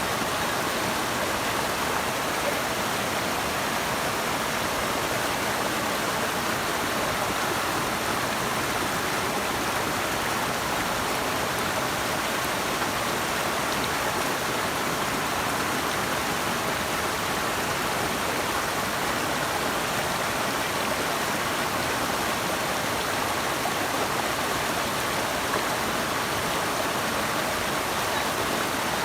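Running water rushing steadily and evenly, without a break or change.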